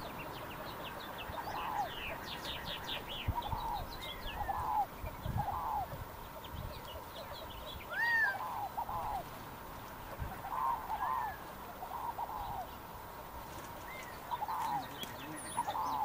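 Birds calling: short arched notes, often in pairs, repeat every second or two, with a quick run of high twittering notes about two seconds in and a higher rising call about eight seconds in. A few low thumps sit under the calls.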